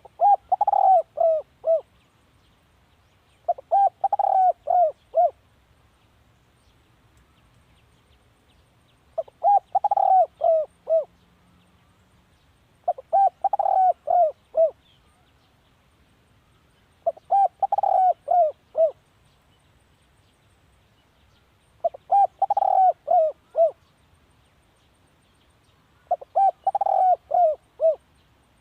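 Spotted dove cooing: seven phrases, each a quick run of five or six short coos that fall in pitch, repeated about every four to five seconds.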